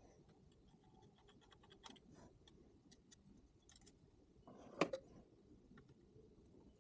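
Faint scratching and small scattered clicks of hand work on small metal parts, with one sharper click about five seconds in.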